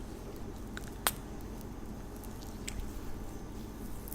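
Hands rubbing argan hand butter into the skin, soft wet squishing, with one sharp click about a second in.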